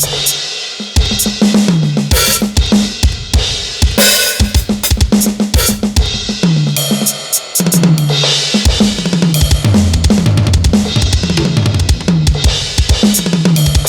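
Electronic drum kit played hard: fast kick and snare strokes with busy tom fills that step down in pitch, and cymbal crashes about 4 and 8 seconds in.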